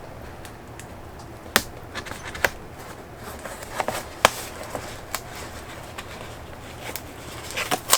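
Packaging and items being handled while unpacking a cardboard box: scattered sharp clicks and taps with light rustling, the loudest about a second and a half in and again about four seconds in.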